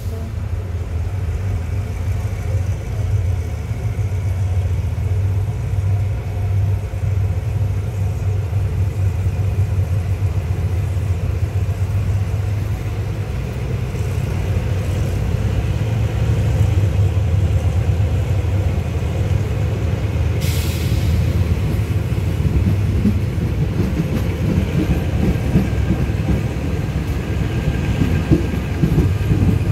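Diesel passenger train pulling away from a station, heard from an open carriage door: a steady low engine rumble with wheel clatter on the rails building as it gathers speed. A brief hiss of air comes about two-thirds of the way through.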